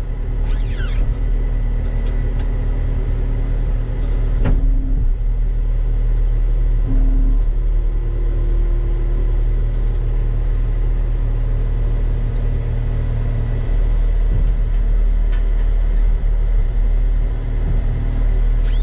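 A diesel engine of heavy equipment running steadily, a deep, even rumble.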